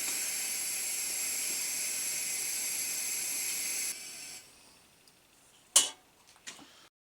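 Tilley X246B pressure paraffin lamp burning with a steady hiss, which stops about four seconds in. A sharp click follows, then a fainter one.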